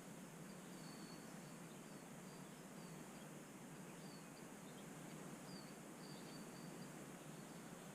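Faint, short, high bird chirps at irregular intervals, a few dropping slightly in pitch, over a steady background hiss.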